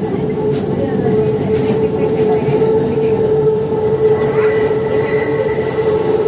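Metro train running at speed, heard from inside the carriage: a steady rumble with a constant whine.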